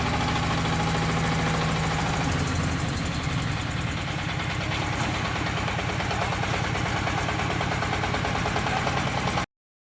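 40 HP crawler mini tractor engine running steadily, settling to a lower, slower pulsing speed a few seconds in. The sound cuts off abruptly near the end.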